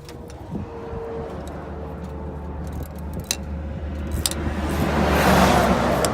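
Roadside traffic: a steady low rumble, with a vehicle passing that swells up and eases off near the end. A few sharp clicks are heard along the way.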